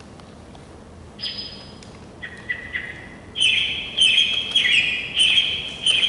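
A recording of a bird calling, played back to the room: a few high chirps about a second in, then a run of loud, clear notes repeated roughly every half second or so.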